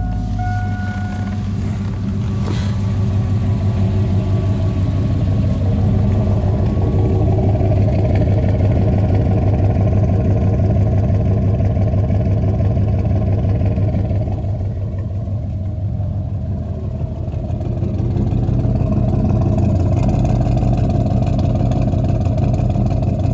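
Exhaust of a 2002 Chevy 2500 HD's 8.1-litre Vortec big-block V8 through glass-pack mufflers, running at low speed with a deep, steady note. It swells a little in the middle, eases back, and comes up again near the end.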